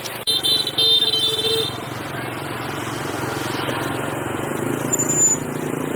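A motorcycle engine idling steadily, with a click and then a short, loud high-pitched tone lasting about a second and a half just after the start.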